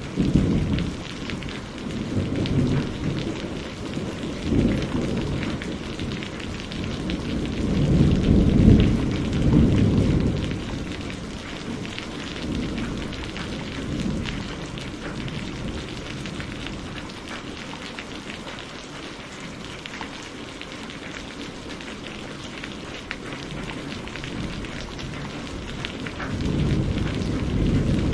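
Steady heavy rain with rolling thunder. Deep rumbles swell and fade several times; the loudest is about a third of the way in, and another builds near the end.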